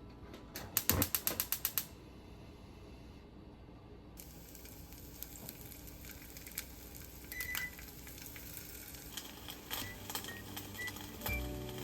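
Kitchen cooking sounds: a quick run of sharp clicks lasting about a second, then from about four seconds in a steady hiss with scattered small clicks and taps.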